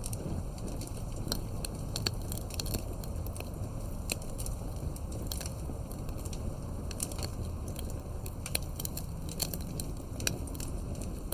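Wood fire burning, with irregular sharp pops and crackles over a steady low rumble of flames.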